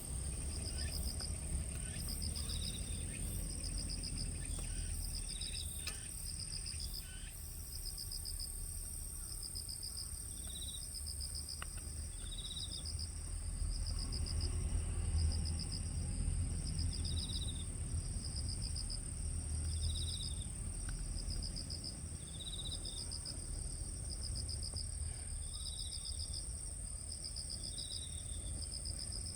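Several insects calling together: one continuous high-pitched trill, pulsed chirps repeating about once a second, and a lower chirp every few seconds, over a steady low rumble.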